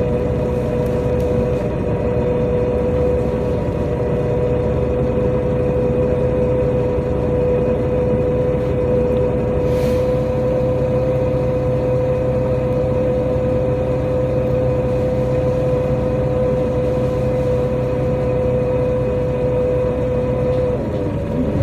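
NefAZ-5299 city bus running at a steady speed, heard from inside the cabin: low engine and road hum under a steady whine. The whine dips in pitch near the end as the bus slows, then starts to rise again.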